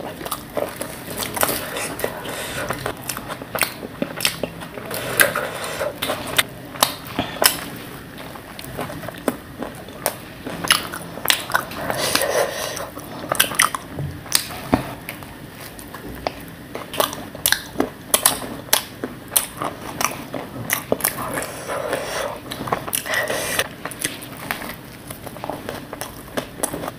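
Chewing and biting of a dabeli, a soft bun topped with crunchy sev, close to the microphone: frequent sharp crunchy clicks and wet mouth sounds throughout.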